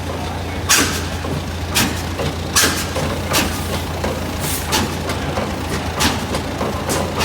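Old stationary engine running, with sharp exhaust bursts at uneven intervals about a second apart over a steady low hum.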